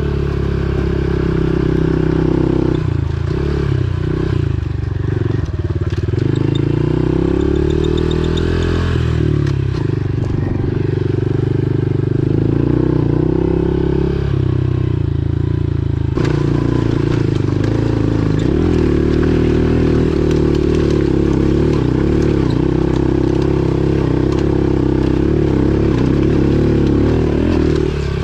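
Pit bike engine running while being ridden, its pitch rising and falling with the throttle through the first half, then holding steadier from about midway.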